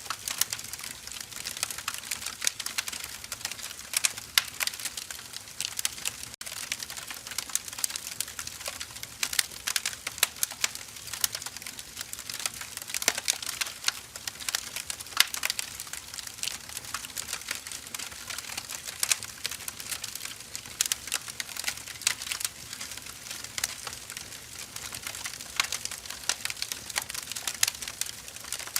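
Firewood burning, with dense, irregular crackling and popping over a soft hiss.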